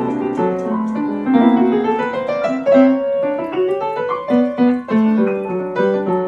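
Upright piano being played: a quick flowing melody with climbing runs over lower notes.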